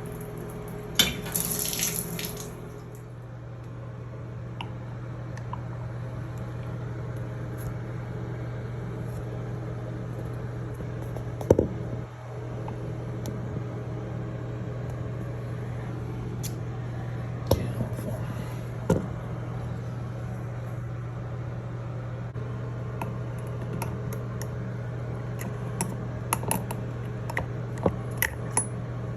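Steady water hiss with a low hum in a small bathroom, with scattered sharp clicks and knocks of pliers against a shower head as its flow restrictor is worked out. A brief louder hiss comes about a second in.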